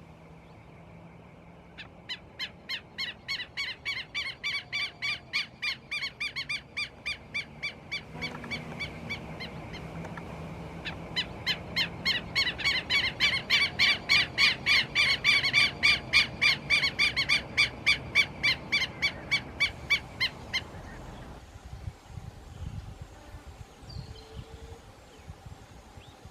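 Red-legged seriema giving its long rhythmic song: a loud run of evenly repeated calls, about three to four a second, swelling louder about halfway through and breaking off suddenly near the end.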